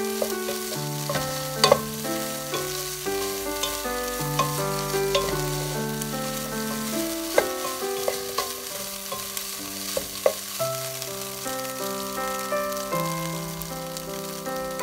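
Chopped pork, onion and chili sizzling in a frying pan as a wooden spatula stirs it, scraping and knocking against the pan a handful of times, loudest as a double knock near two seconds in. Background music with slow, held notes plays under it.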